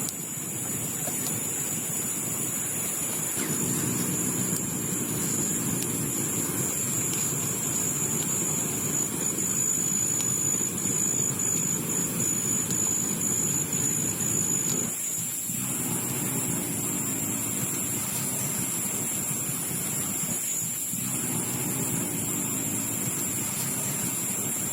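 Heavy rain falling steadily, with two brief dips about fifteen and twenty-one seconds in.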